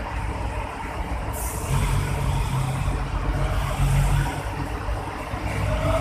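Hino truck's diesel engine running, with the low rumble getting louder a little under two seconds in, as if under load. A brief high hiss of air comes just before the rise.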